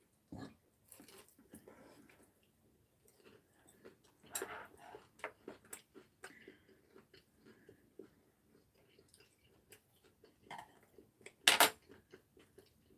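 People chewing and crunching fried squid, with scattered small clicks and crackles, and a louder sharp crunch-like burst near the end.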